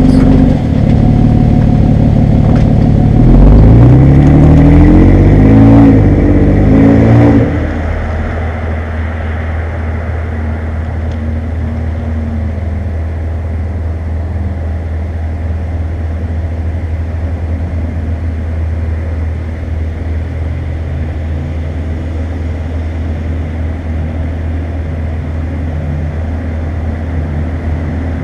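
2014 Toyota Tacoma's 4.0-litre V6 running through a Flowmaster 50 Series muffler: revved up and down a few times, then about seven and a half seconds in it drops back to a steady, deep idle.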